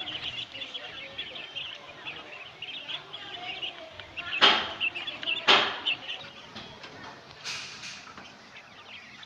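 A flock of caged quail chirping and peeping continuously, many small high calls overlapping, with two loud sharp knocks about four and a half and five and a half seconds in.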